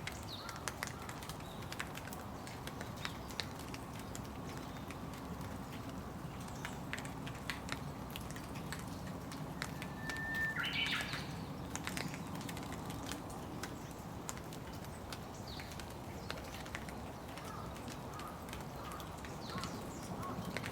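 Steady rain, with scattered drops ticking sharply. A bird calls once about halfway through: a short whistle, then a brief harsher note.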